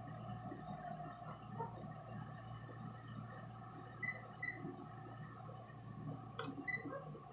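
Faint, steady low drone of a cruising motor yacht's engines, with a few short high chirps about four and six and a half seconds in and a single sharp click between them.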